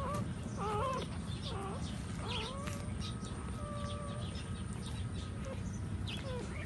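Nursing puppies squeaking and whining in short squeals that rise and fall in pitch, with one longer held whine midway, over a steady low hum.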